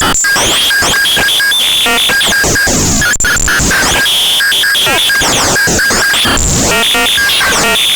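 Eurorack noise module built on square-wave oscillators, in the style of the Hexinverter Jupiter Storm, putting out harsh, chaotic synthesized noise. Stepped buzzing tones flicker on and off in quick patterns, with swooping pitch glides, and the sound drops out for an instant about three seconds in.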